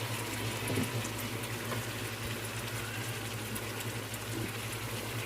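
Chicken and tomatoes cooking in a pot: a steady sizzling, bubbling hiss, with a low steady hum underneath.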